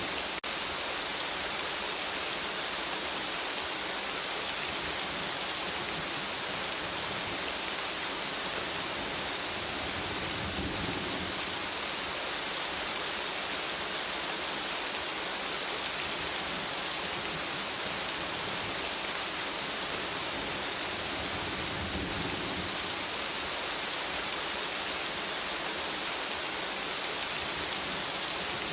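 Steady rain falling on forest foliage, an even hiss, with two brief low swells partway through.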